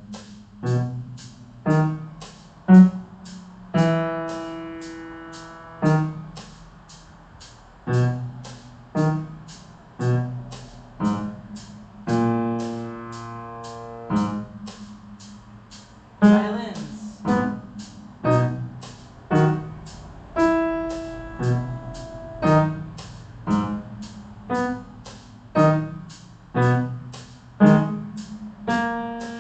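Piano accompaniment of low bass notes and chords played in a steady beat, over a regular click of about two to three ticks a second.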